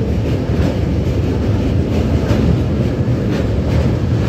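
Electric local train running across a steel truss railway bridge, heard from aboard: a steady, loud rumble of wheels on rails, with a few faint clicks.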